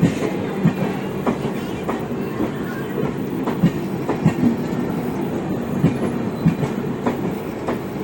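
Passenger train coaches rolling along the track: a steady rumble and hum, with irregular wheel clacks and knocks over the rail joints.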